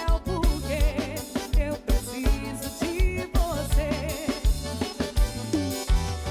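Live band music with a steady kick-drum beat and bass under a wavering melody line, with no words sung.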